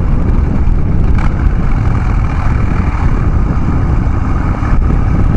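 Harley-Davidson Dyna Street Bob's air-cooled V-twin engine running steadily through a Vance & Hines Big Radius 2-into-2 exhaust while the bike is ridden, loud and low.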